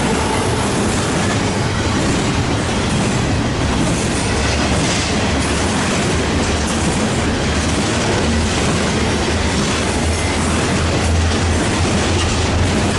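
Long BNSF westbound double-stack intermodal freight train rolling past, a steady loud noise of steel wheels on rail under the passing container cars.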